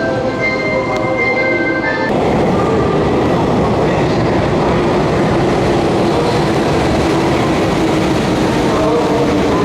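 Hanshin Main Line electric train running past the platform: a steady, loud rumble of wheels and running gear, with a faint low motor whine slowly falling in pitch. A set of steady tones heard at the start breaks off about two seconds in.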